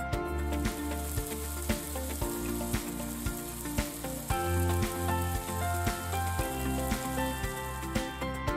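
Chopped onion and tomato sizzling in oil in a frying pan as they are stirred. Background music with a steady beat plays throughout.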